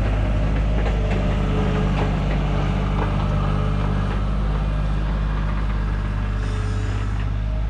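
Diesel engine of a digging machine running at a steady speed, with faint brief whines and small clicks over it.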